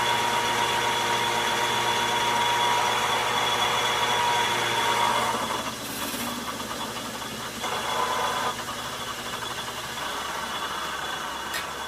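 Logan metal lathe running under power, a steady hum with a high gear whine, taking a turning pass on a steel nut. The sound drops in level about halfway through, and the low hum fades out near the end.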